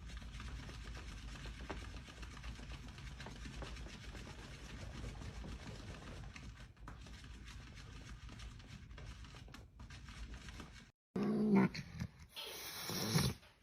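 Angry domestic cat growling low and rough for about ten seconds. After a short break, a brief higher pitched cat cry follows.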